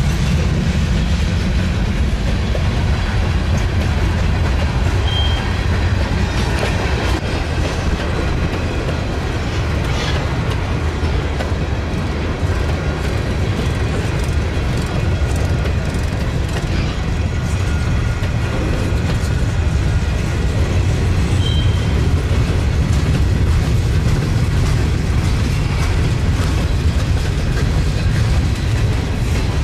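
A train rolling past close by: a steady, loud rumble of wheels on rail with clickety-clack over the rail joints and a couple of brief, faint high wheel squeals.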